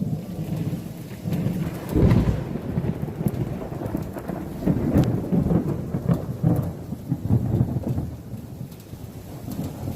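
Thunder from a nearby lightning strike: a sudden loud clap about two seconds in, then rumbling that rolls on in waves for several seconds and fades near the end, over steady rain.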